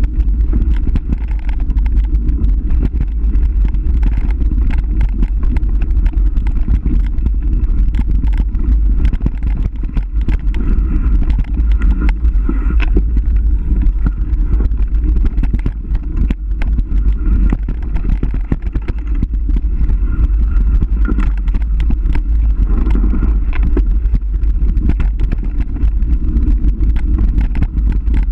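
Constant wind rumble on the microphone with dense rattling and jolting clatter, as of a ride down a rough trail.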